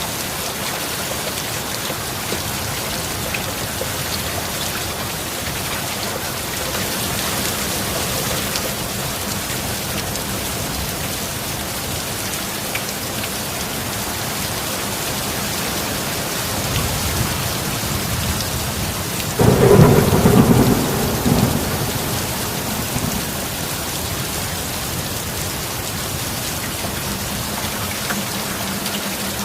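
Steady heavy rain, with thunder building as a low rumble and breaking into a loud clap about two-thirds of the way through, then rolling away over a few seconds.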